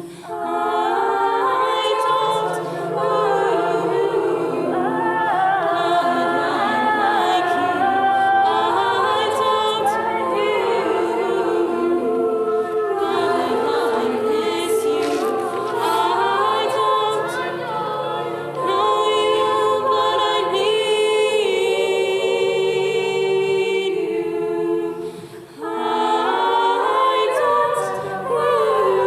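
Choir singing a cappella in several voice parts, with brief breaks between phrases about three seconds in and again near the end.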